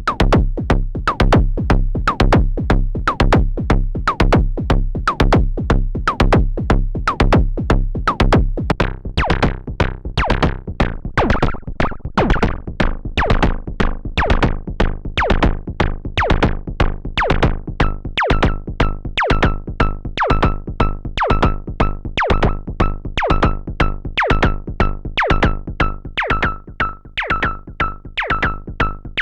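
Analog semi-modular drum synthesizer running a sequenced percussion pattern of repeating pitched hits. A deep low boom under the hits fades out about a third of the way through, and a ringing high ping sounds on each hit through the second half.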